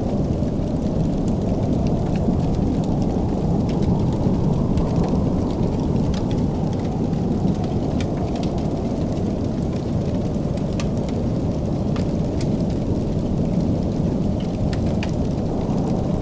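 Wood fire crackling, scattered sharp pops over a steady low rumble.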